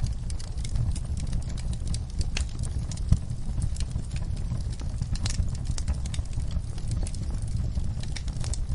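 Wood fire burning in a fireplace: a steady low rumble of flames with irregular crackles and pops, one louder snap about three seconds in.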